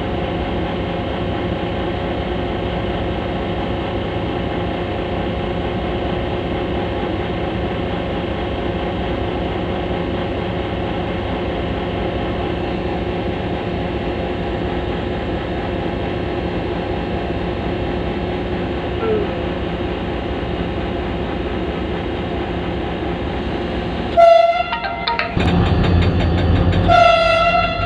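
HGMU-30 diesel locomotive engine running steadily, then two short horn blasts near the end, about three seconds apart. The engine rumble grows louder after the first blast.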